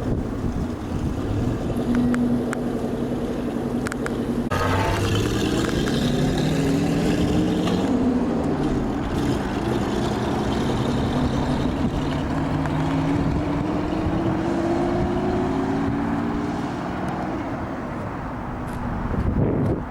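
Twin-turbo V12 engine of a kit car running steady, then pulling up through the revs. The pitch drops sharply at a gear change about eight seconds in, climbs slowly again for several seconds, and eases off near the end.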